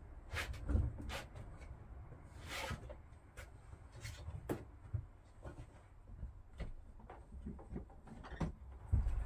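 Scattered light knocks, clicks and bumps of things being handled and set down, over a low rumble, with a louder knock near the end.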